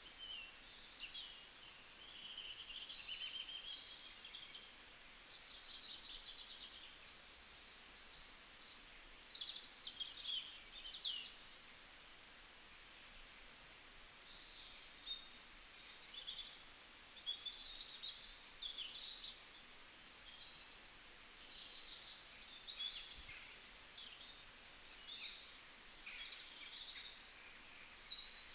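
Several songbirds chirping and trilling in a continuous chorus of short, high calls and quick sweeps, over a faint steady outdoor hiss.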